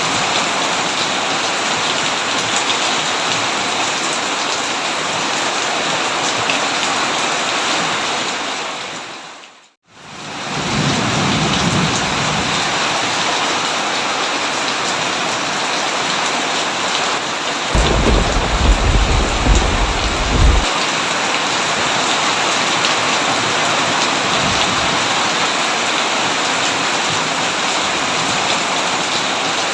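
Heavy rain pouring steadily, with thunder rumbling twice: a low roll just after the rain fades to silence for a moment and comes back, and a louder, longer rumble about two-thirds of the way through.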